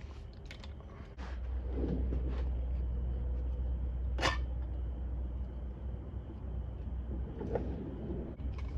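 Tools and metal engine parts being handled, with scattered light clicks and clunks and one sharp click near the middle. A steady low hum comes in about a second in.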